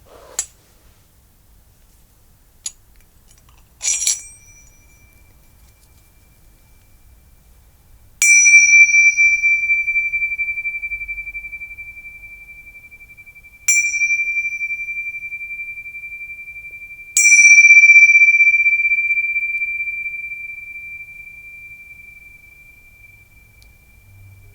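A small high-pitched bell struck lightly once, then three times firmly a few seconds apart. Each strike rings on one clear high tone that fades slowly with a gentle pulsing, the kind of chime used to close a meditation.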